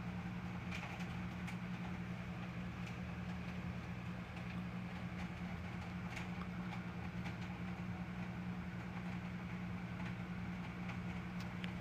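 A steady low hum, like a fan or other running machine, over a faint hiss, with a few faint ticks now and then.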